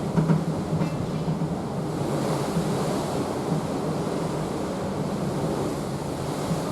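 Open sea rushing past the hull of a cruise ship under way, a steady wash that swells a little about two seconds in, with wind buffeting the microphone.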